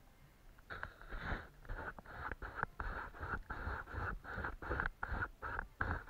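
Paintbrush scrubbing on paper in quick rhythmic strokes, about three a second, starting about a second in.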